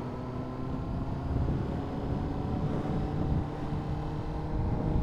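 Honda CBR600RR's inline-four engine running at a steady pitch while the motorcycle is ridden, with some road and wind noise on the rider's microphone.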